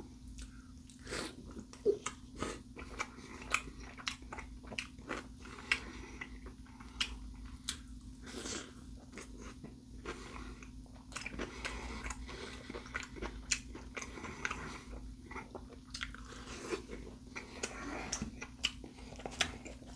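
A person chewing and biting an Italian beef sandwich soaked in au jus: irregular mouth clicks and smacks, with no speech.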